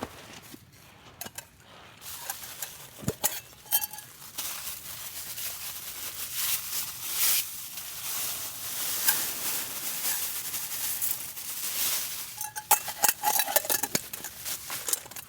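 Scattered clinks and knocks of cookware being handled, with a steady hiss through the middle stretch.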